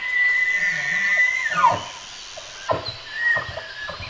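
A bull deer's bugle, played as the moose's call: a long high whistle held for over a second that then slides steeply down, followed by a few short grunts and a second, shorter high note.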